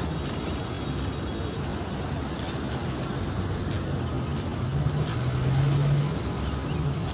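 Road traffic: vehicle engines running and tyres on the road, with a low engine hum that grows louder about five seconds in and then fades.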